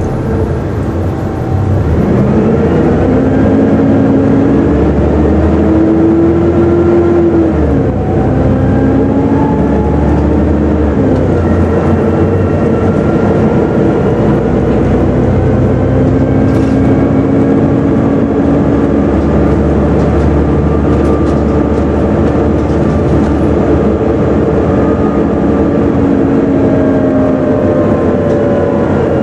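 Volvo B7TL double-decker bus's engine and driveline heard from on board, with the 'hoover' whine: a whine that rises in pitch as the bus picks up speed and drops back at each gear change, several times over.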